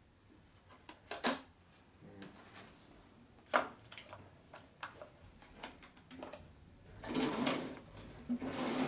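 Small metal cutting-tool bits clinking and clattering as they are handled and sorted through. There is a sharp clink a little over a second in, another about three and a half seconds in, lighter ticks between them, and a stretch of rummaging near the end.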